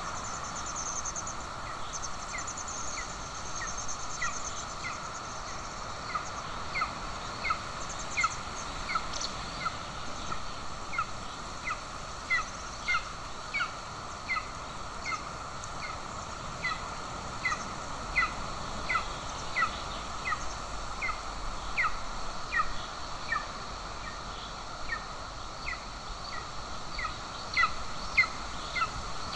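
Golden eagle nestling calling at the nest: a long run of short, high, slightly falling cheeps, about one and a half a second, getting louder near the end.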